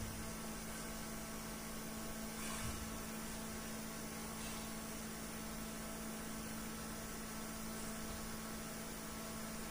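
Steady electrical hum with an even hiss underneath, and a faint click about two and a half seconds in.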